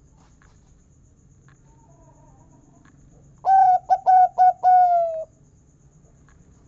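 Zebra dove (perkutut) cooing one song phrase about halfway through: a first note, three quick clipped notes, then a long final 'kung' note that falls slightly in pitch. A few faint ticks come before and after.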